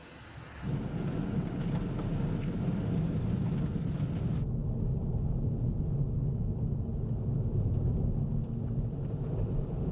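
Car tyres rumbling on a road spread with gravel over snow and ice: a steady, loud, deep rumble that starts under a second in, its higher hiss dropping away about four and a half seconds in.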